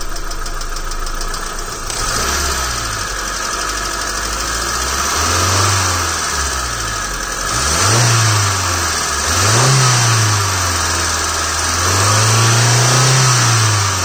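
A 2008 Hyundai Accent's engine, filmed under the open bonnet, idles for about two seconds and is then revved up and down several times, the engine note rising and falling with each blip and held up longer once near the end.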